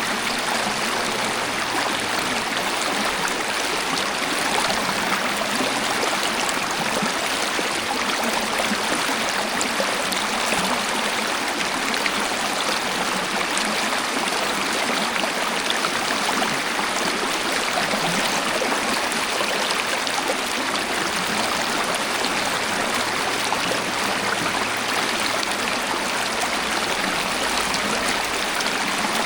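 Waterfall: water pouring and splashing in a steady, even rush with no change throughout.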